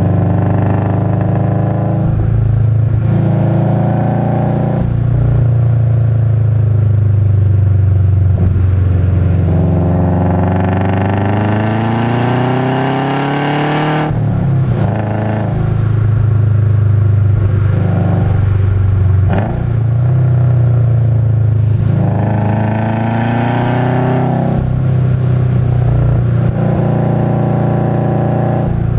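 2005 Subaru Legacy GT's turbocharged flat-four engine heard from inside the cabin, alternately accelerating and backing off through a run of corners. About ten seconds in, a long pull climbs steadily in pitch and cuts off sharply near the fourteen-second mark; another rise in pitch comes a little past twenty seconds.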